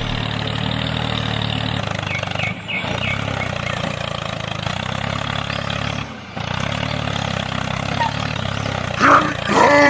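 A steady, low engine-like motor drone that cuts out briefly twice, with a person's voice calling out loudly near the end.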